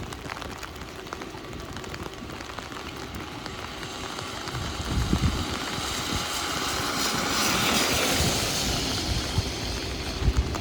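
Heavy rain pattering on an umbrella, while a vehicle passes on the wet street: a tyre hiss swells from about four seconds in, peaks near eight seconds and fades.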